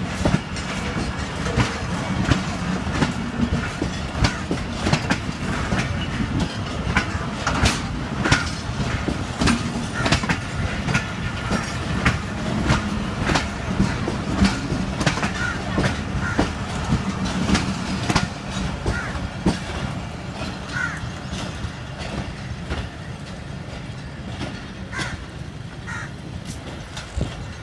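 Passenger coaches of a departing train rolling past slowly. The wheels clack over the rail joints above a steady low rumble, and the sound fades somewhat in the last few seconds as the end of the train draws away.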